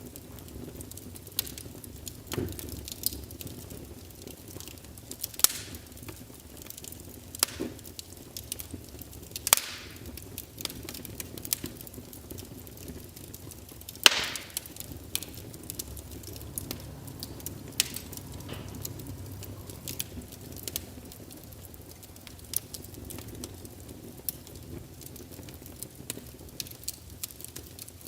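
Wood fire burning in a fireplace, crackling and popping at irregular moments over a low steady rumble of the flames, with one loud pop about halfway through.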